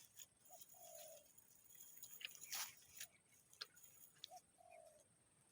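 Faint dove cooing: a short note followed by a longer, level coo, heard twice about four seconds apart, with a few faint clicks in between.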